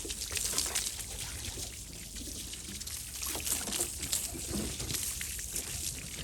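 Water trickling and pouring steadily, with many small irregular splashes.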